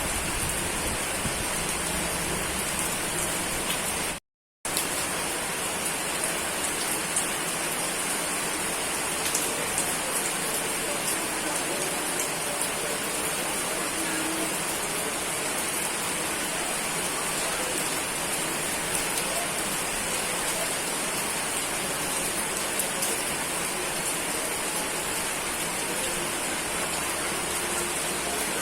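Steady rain falling, an even hiss with fine scattered drop ticks. It cuts out to silence for under half a second about four seconds in.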